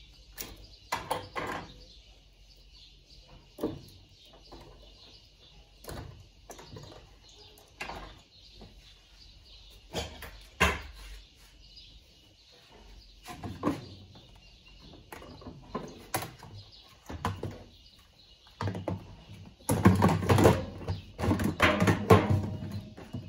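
Irregular knocks and clatter of parts and tools being handled while a washing machine is taken apart, with a dense run of louder clattering near the end.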